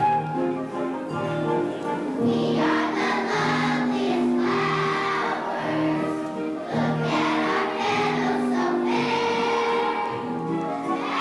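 Children's choir singing a song with instrumental accompaniment. The accompaniment plays alone at first, and the voices come in about two seconds in.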